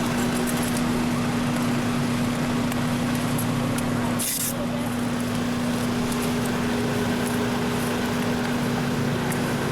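Steady engine drone with a constant hum, broken by a short hiss about four seconds in.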